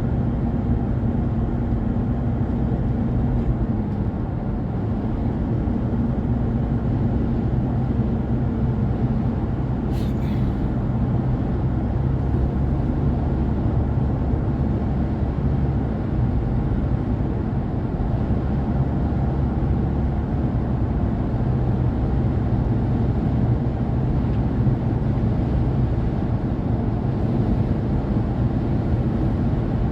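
Car driving along a road: steady engine hum and road noise, with one short click about ten seconds in.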